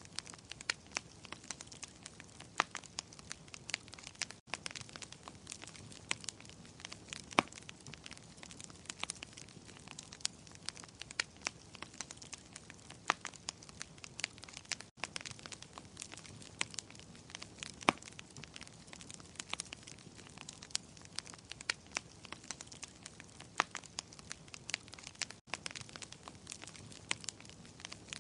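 Wood fire crackling in a fireplace: irregular sharp pops and snaps over a soft steady hiss. The sound drops out for a split second three times, about every ten seconds.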